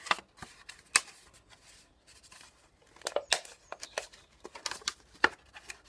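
Thin plastic of a cut-open milk bottle being bent and folded out by hand, giving irregular sharp clicks and crackles.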